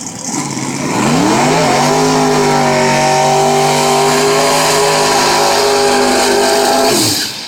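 Outlaw 10.5 drag car's engine revving up about a second in and held at a steady high pitch for about five seconds during a burnout, then cut off sharply.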